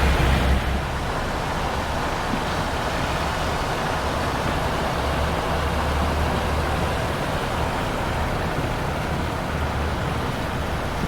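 A car driving on a highway through flash-flood water: steady tyre and road noise with a wash of water and a low rumble, easing off slightly about half a second in.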